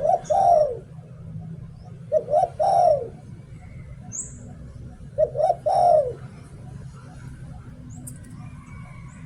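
Spotted dove cooing: three short phrases of several coos each, about two and a half to three seconds apart, in the song rhythm Thai keepers call 'liu tan'. Faint chirps of small birds between the phrases.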